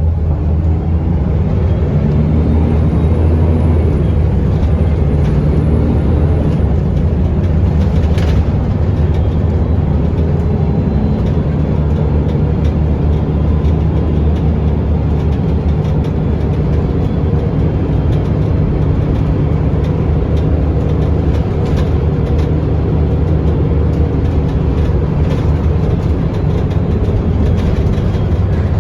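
Scania L94UB city bus under way with its ZF automatic gearbox, heard on board: a steady, loud low engine drone, with a few sharp rattles, one about eight seconds in.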